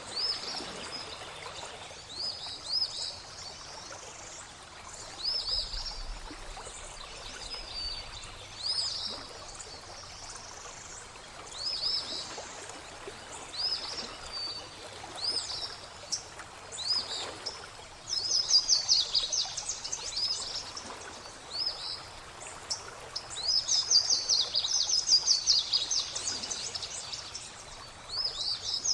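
Songbirds singing over a soft trickle of flowing water: short arching whistled notes every second or two, with bursts of rapid trilling about two-thirds of the way in and again near the end.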